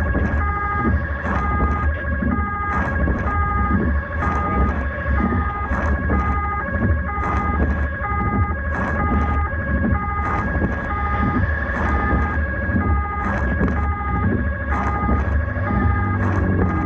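Rescue vehicle's electronic siren sounding a repeating two-tone hi-lo pattern over a steady low rumble of engine and road noise.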